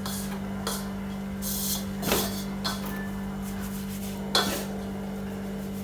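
Ingredients for chips dough being mixed in a bowl: a handful of brief scrapes and knocks against the bowl, spaced a second or so apart, over a steady low hum.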